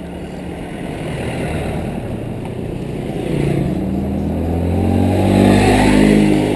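A motor vehicle's engine approaching and passing close by, growing louder to a peak near the end and dropping in pitch as it goes by.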